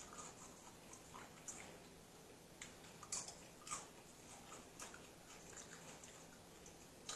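Faint close-up eating sounds: chewing and crunching of tortilla chips and nachos, with scattered small crackles and clicks spread through the quiet.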